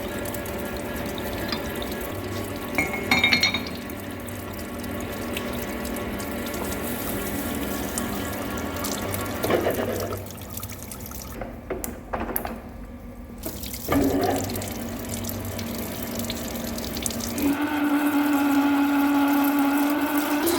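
Metal lathe drilling into a steel pin with cutting coolant running and splashing, under background music; a steady humming tone comes in near the end.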